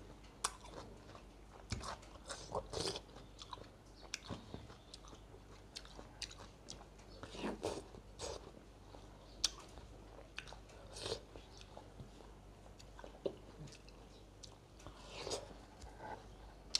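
A person biting and chewing pieces of watermelon: irregular short mouth sounds with pauses between bites.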